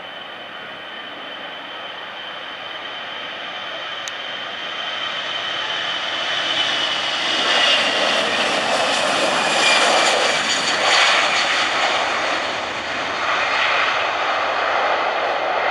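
Airbus A320 jet airliner's engines at takeoff thrust, growing louder to a peak about halfway through and staying loud. A high whine falls slightly in pitch as the noise builds.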